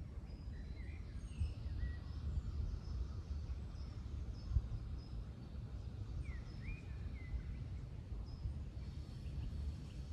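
Faint birds chirping now and then over a steady low outdoor rumble, with a couple of short sliding calls about six to seven seconds in.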